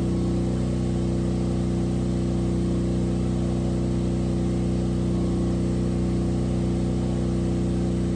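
An engine running steadily at idle: a constant low hum made of several steady tones that does not rise or fall.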